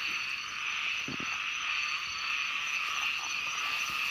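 A steady, dense chorus of small pond frogs (khiat) calling, with a soft low thump about a second in.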